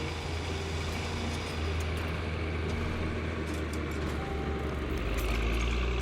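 Fiat 1580 DT tractor's diesel engine running steadily. Its low hum deepens and grows a little louder about five seconds in.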